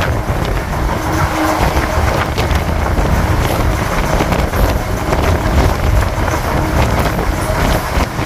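Running noise of a MEMU electric train at speed, heard at its open door: a steady rumble of wheels on rails with scattered sharp clicks, and wind buffeting the microphone.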